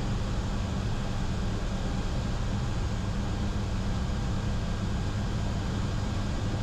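A C-130J's four Rolls-Royce AE 2100 turboprops at takeoff power during the takeoff roll, heard inside the cockpit: a steady drone with a strong low hum.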